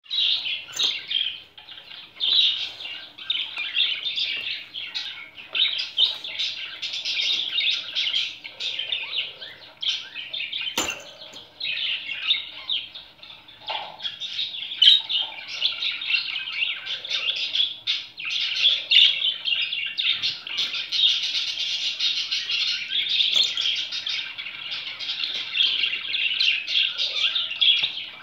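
Pet budgerigar warbling and chattering excitedly without a break, a dense stream of fast high chirps and squeaks. A single sharp click about eleven seconds in.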